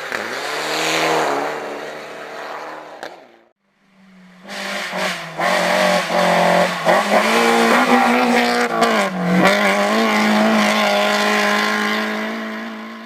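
A race car engine at high revs goes by, its pitch falling. After a brief break, another race car engine runs hard for most of the rest, its pitch dropping and climbing again a few times as it shifts gear.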